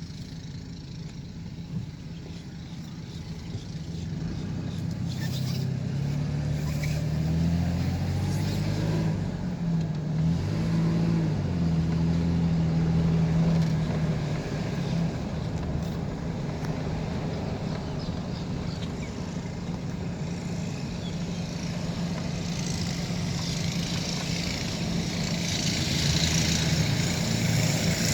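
Ford E-150 van's engine pulling away and accelerating, its pitch rising over several seconds, then running steadily as the van drives, with road noise building near the end.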